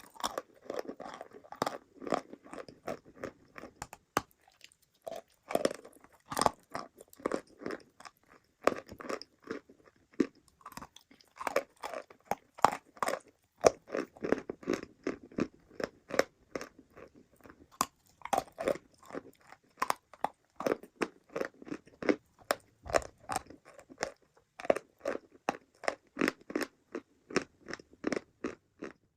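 Close-miked biting and chewing of crunchy, dry chalk-like mineral pieces: a dense run of sharp crunches, several a second.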